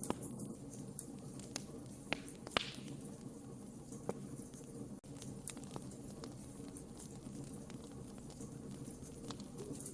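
Wood fire crackling in a fireplace: a steady low rush of burning with scattered sharp pops, the loudest about two and a half seconds in.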